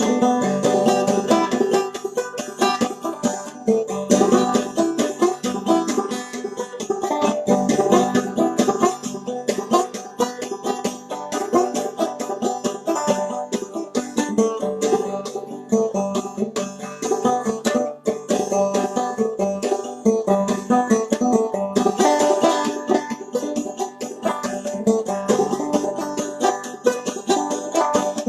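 Clawhammer banjo playing an old-time instrumental tune, a quick, steady run of plucked and brushed notes.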